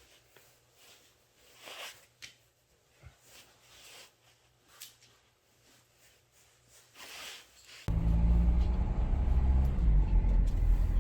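Faint clicks and rustles, then about eight seconds in a loud, low machine hum starts abruptly and keeps running steadily.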